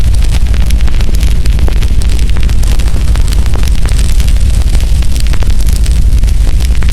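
Burning firewood crackling and popping, with many sharp pops each second over a steady low rumble.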